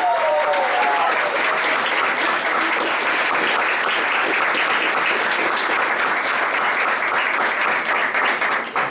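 Audience applauding steadily, stopping abruptly near the end, with a brief voice over the claps in the first second.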